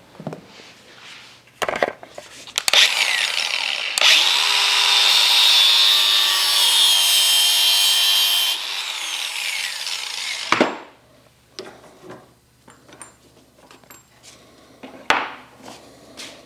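A power tool running with cutting or grinding noise, loud and steady for about six seconds from a few seconds in, then cutting off. Scattered knocks and clatter come before and after it.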